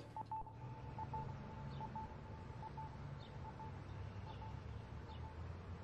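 Faint outdoor ambience: small birds chirping about once a second over a low hum, with a thin steady tone that breaks off now and then and stops near the end.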